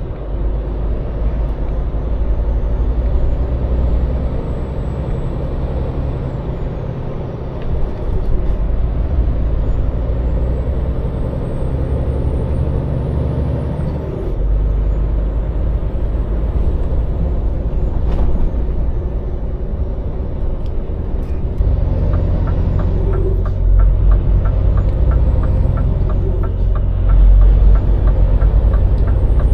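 Scania lorry's diesel engine running steadily on the road, its low drone shifting in pitch a couple of times as it changes speed. A faint high whistle rises and falls above it, and a rapid ticking, about five a second, runs for several seconds near the end.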